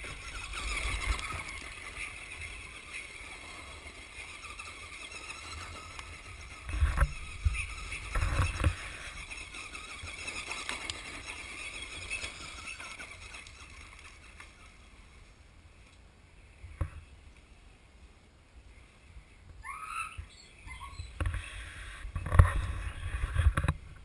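Electric radio-controlled trucks running: a thin motor whine, strongest in the first few seconds, with several knocks and thumps as they bump along.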